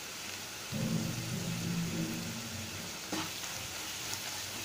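Onion masala frying and sizzling in oil in a nonstick kadai, stirred with a wooden spatula, with a spatula knock about three seconds in. A low hum sounds for a couple of seconds near the start.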